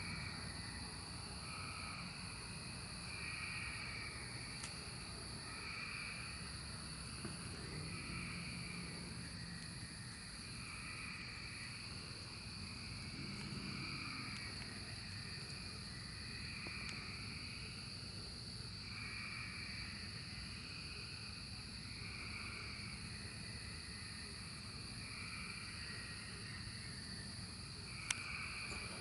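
Chorus of Magicicada periodical cicadas: a steady high drone with repeating calls swelling every second or two. A single sharp click sounds near the end.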